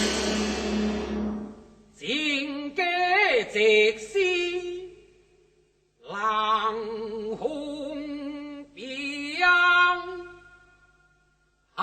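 Teochew opera: a percussion crash dies away over the first two seconds. Then a voice sings two unaccompanied phrases with wavering vibrato and sliding pitch, with a short pause between them.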